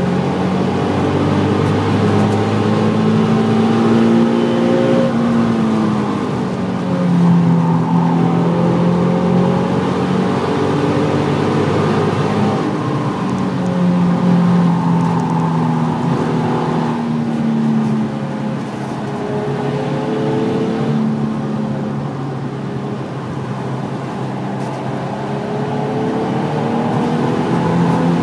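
Nissan 350Z's 3.5-litre V6 engine heard from inside the cabin at track speed, its note climbing under acceleration and dropping back several times as the driver shifts and lifts for corners, over steady road and tyre noise.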